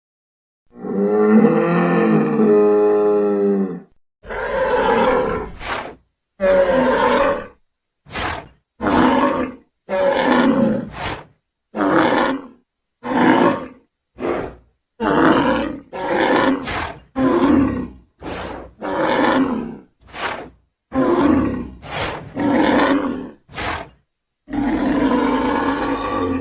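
A run of separate creature roar and grunt sound effects for a Homo Coelodonta, each cut off cleanly with a short silence before the next. The first is a long pitched roar of about three seconds, starting about a second in. The rest are short calls of half a second to a second and a half.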